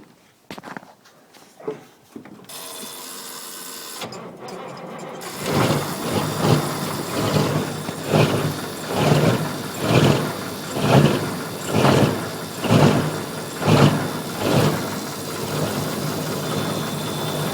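Caterpillar 3208 V8 diesel being cranked on the starter in a cold start below freezing. After a few clicks, slow heavy pulses come a little under one a second for about ten seconds, then the sound evens out into a steady run near the end. The long crank is a sign of a cold engine on a weak battery.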